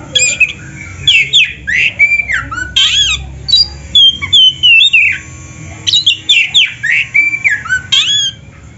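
Oriental magpie-robin (kacer) singing a fast, varied stream of loud whistled notes and sharp up-and-down sweeps, breaking off shortly before the end.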